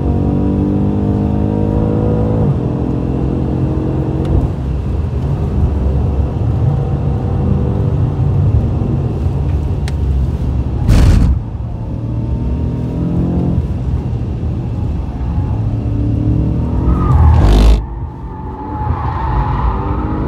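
BMW F90 M5's twin-turbo V8 heard from inside the cabin under hard driving, its pitch climbing and dropping with throttle and gear changes. Two short, loud rushes of noise break in about eleven and seventeen seconds in.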